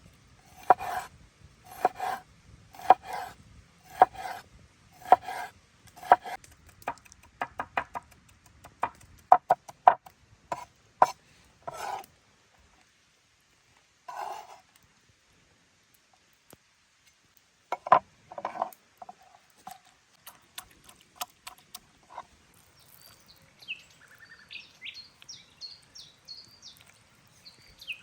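Knife strokes on a wooden board: steady chops about once a second, then quicker, lighter cuts, then a few scattered strikes. Birds chirp near the end.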